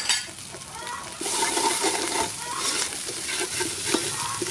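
Pounded curry paste frying in oil in an aluminium pot, sizzling as a wooden spatula stirs it through with salt, chicken powder and sugar. There is a sharp knock at the very start, and the sizzle grows louder about a second in.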